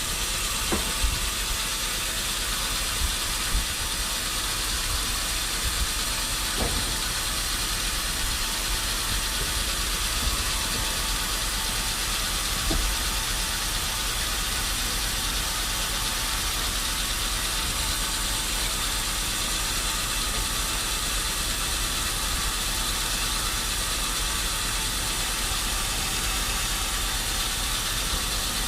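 Sawmill machinery running steadily with a constant hissing mechanical noise and a low hum. A few sharp clicks or knocks come in the first several seconds.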